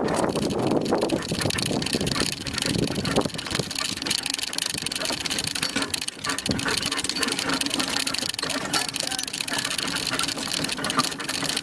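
Horse-drawn cart pulled by a pair of horses in motion: steady rolling and rattling of the wheels and harness, with the horses' hoofbeats.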